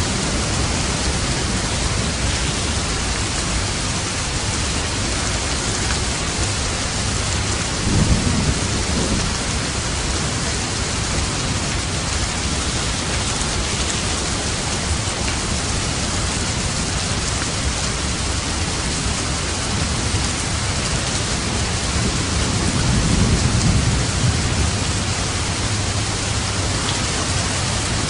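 Steady, dense rainfall, with a low rumble of thunder about eight seconds in and a longer one a little past the middle.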